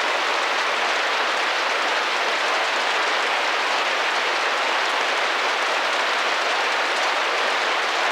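Steady rain pattering against a window pane, a constant dense hiss of drops with no breaks.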